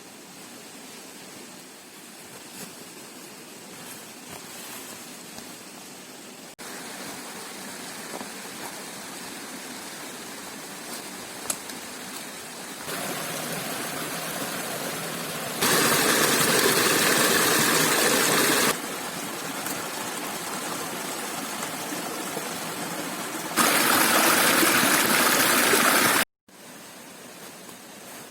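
Steady rushing noise, like running water, that jumps abruptly up and down in loudness several times and is loudest in two stretches of a few seconds each.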